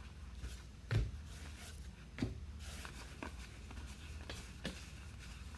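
Trading cards being handled on a table during a box break: scattered soft taps and clicks as cards are flipped and set down, with a low thump about a second in and another just after two seconds, over a steady low hum.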